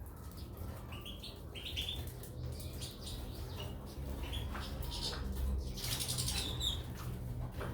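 Caged goldfinches and canaries giving short, high chirps and fluttering about, with scattered light clicks and taps.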